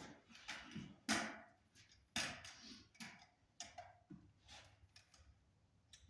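Utility knife scoring around the bark of a cedar log: a series of short, irregular scraping and knocking strokes, roughly one a second.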